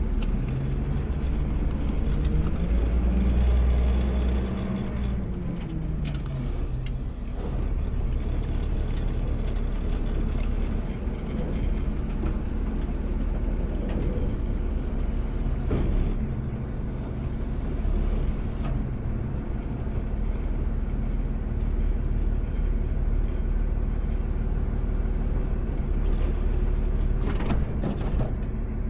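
Automated side-load garbage truck's diesel engine running, heard from the cab. About two seconds in, the engine revs up and then settles back down, with light clicks and rattles throughout.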